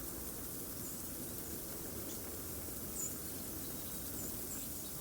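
Steady outdoor background hiss with a few faint, very high, short chirps from small songbirds scattered through it, the clearest about three seconds in.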